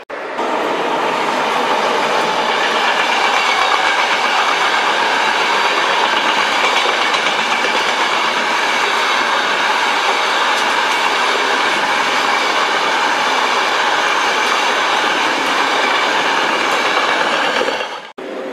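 A passenger train of green-and-white coaches running past at speed: a loud, steady rush of wheels on the rails that cuts off suddenly near the end.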